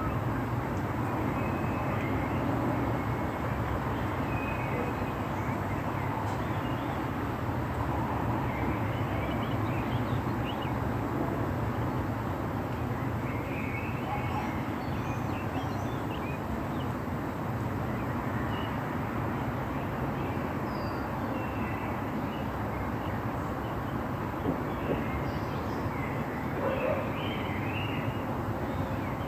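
Light rain falling as a steady, even hiss, with birds chirping now and then.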